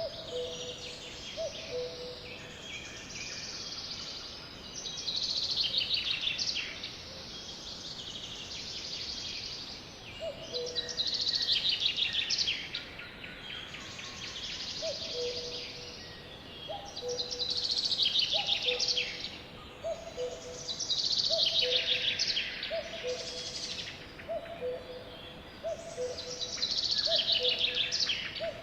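Songbirds singing: loud high-pitched phrases of quick trills that fall in pitch, repeated every three to four seconds. Beneath them runs a softer, low two-note call that repeats about once a second, more steadily from the middle onward.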